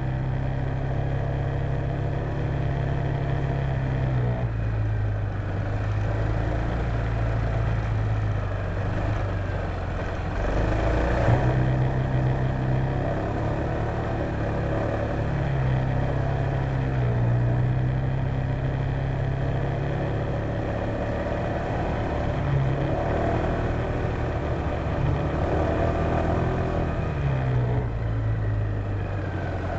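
Honda PCX150 scooter's single-cylinder four-stroke engine running under way, its pitch rising and falling several times as the throttle opens and closes, over steady wind and road noise. A brief louder swell comes about eleven seconds in.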